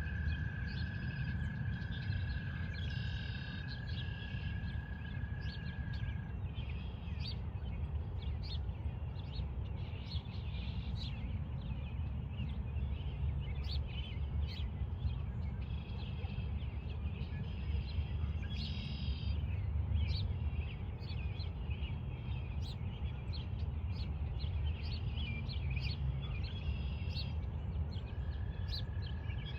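Pond ambience: many short bird chirps and calls throughout, over a constant low rumble. A steady high trill runs for the first six seconds or so and starts again near the end.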